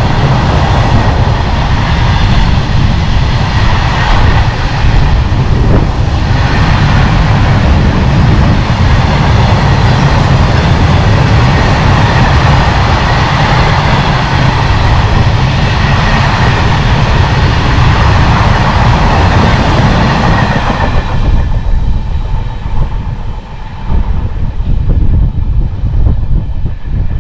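Long rake of open freight wagons rolling past close by: a loud, steady rumble and rattle of steel wheels on the rails. It falls away about 21 seconds in as the last wagons clear, leaving a quieter rumble.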